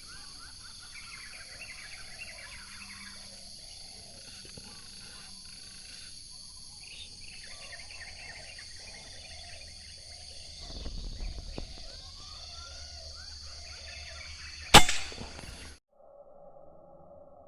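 Steady buzzing of insects with scattered bird chirps and whistles, then near the end a single sharp, loud air rifle shot.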